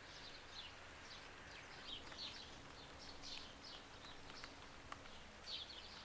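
Faint birdsong: short, high chirps sliding downward, repeated irregularly several times a second, over a light steady background noise.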